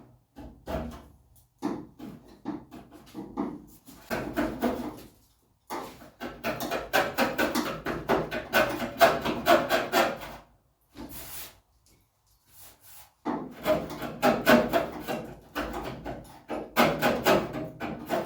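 Hand scraper scraping old paint off a Classic Mini's steel door panel: quick rasping strokes in bursts, with a few short pauses. The paint is lifting, but only slowly.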